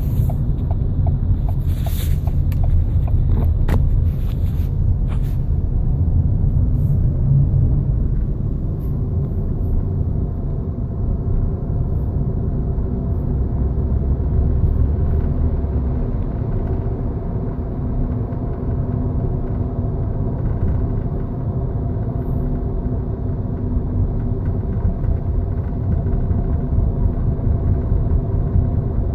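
Ford Fiesta running steadily with a low rumble and a few steady tones, the noise its owner calls abnormal. A few sharp clicks come in the first few seconds.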